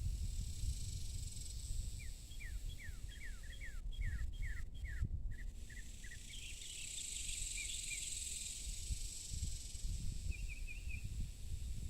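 A songbird singing a quick run of down-slurred whistled notes, then twittering, with a shorter phrase near the end. A steady high insect buzz runs underneath, over a low rumble.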